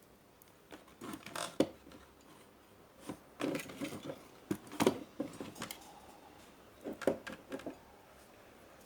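Small handling clicks and rattles of tools and electronic parts being moved on a workbench, in three short clusters about a second in, around the middle, and near the end.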